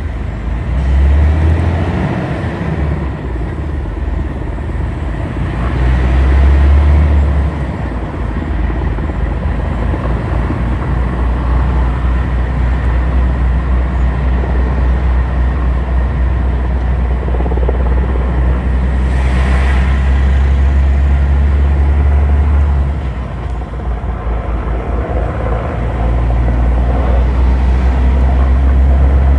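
Steady low rumble of a motor vehicle, swelling and easing a few times.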